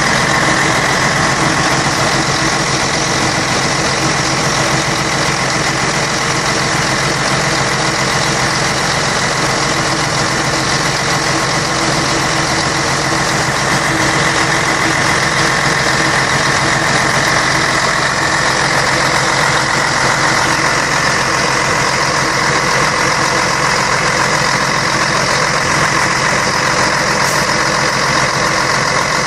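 Scania K113 bus's 11-litre six-cylinder diesel engine running steadily at an even speed.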